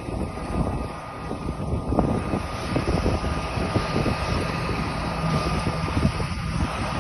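A heavy machine's engine running steadily with a constant whine, under irregular low rumbling buffets.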